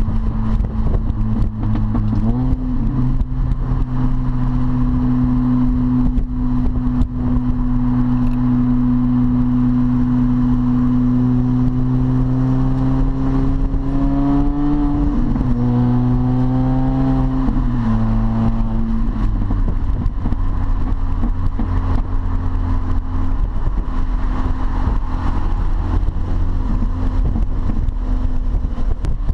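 Supercharged four-cylinder engine and straight-piped exhaust of an R53 Mini Cooper S droning steadily at cruise, heard inside the cabin over road noise. About halfway through a higher whine rises, then the engine note drops in steps over a few seconds as gears are changed, and it runs on lower and quieter.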